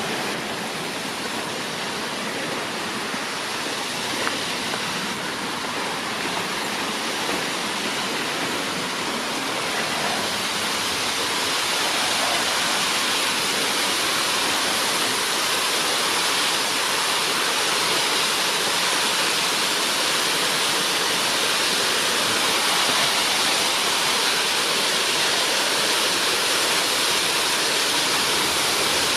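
Rushing water of a mountain stream or waterfall, a steady hiss-like rush that grows a little louder about ten seconds in and then holds.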